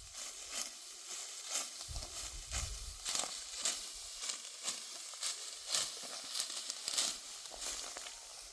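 Dry wheat stalks crunching and rustling in a steady series of crisp strokes, about two a second, with a few low thumps among them.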